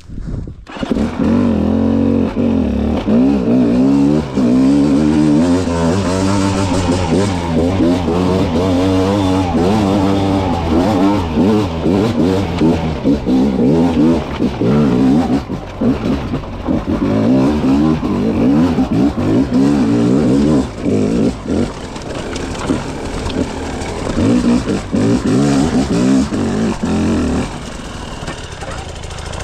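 A 300 cc two-stroke dirt bike engine being ridden hard, its revs constantly rising and falling as the throttle is worked. It comes in suddenly just after the start and runs a little quieter near the end.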